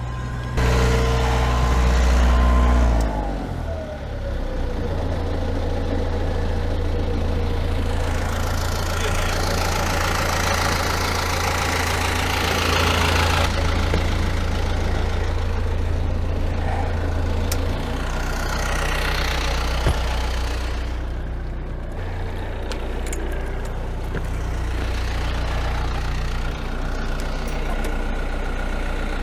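Perkins 4-108 four-cylinder marine diesel engine running, its revs dropping about three seconds in and then holding steady.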